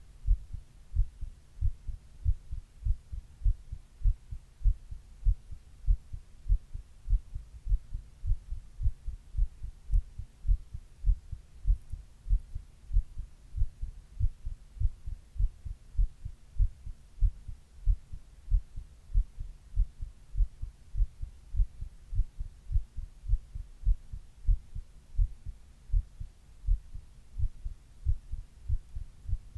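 A person's own heart sounds recorded close up: a steady, regular lub-dub heartbeat of low thuds.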